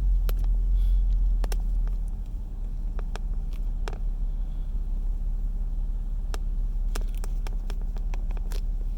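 Steady low rumble of a car heard from inside its cabin, a little louder for the first couple of seconds, with a few faint scattered clicks.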